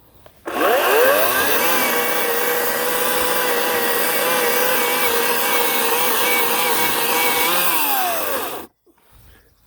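Ryobi 18-inch electric chainsaw motor spinning up with a rising whine about half a second in, running steadily at full speed through a cut in birch wood, then winding down with a falling pitch and stopping near the end.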